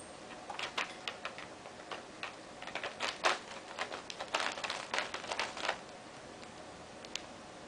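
Cockatiel making a quick run of short, sharp clicking and tapping noises while playing with her toy. The clicks trail off to a few scattered ticks near the end.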